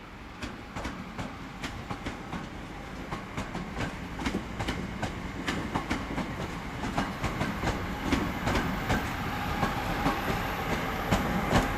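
Class 323 electric multiple unit rolling through the station throat, its wheels clicking over rail joints and points as it gets louder, with a steady whine rising near the end.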